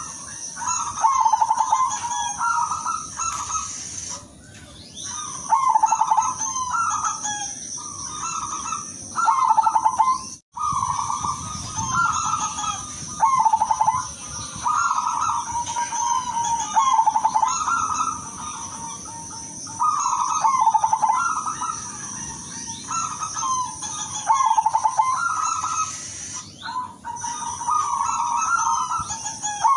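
Silver zebra dove (perkutut) cooing its rolling phrases over and over, a phrase every couple of seconds, with a steady high whine behind it. The audio cuts out for an instant about ten seconds in.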